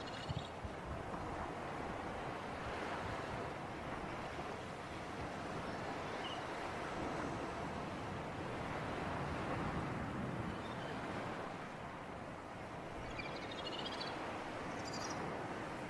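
Sea surf and breeze: a steady wash of waves that slowly swells and fades. A few faint high chirps come through, most of them near the end.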